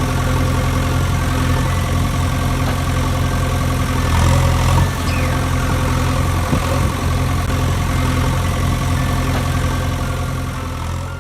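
Heavy engine of a JCB backhoe loader running steadily under load as it hauls a chained tractor out of a pit. It gets a little louder about four seconds in and fades near the end.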